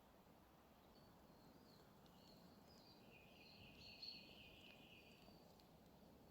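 Near silence: faint high bird chirping from about a second in until near the end, over a low, steady background hiss.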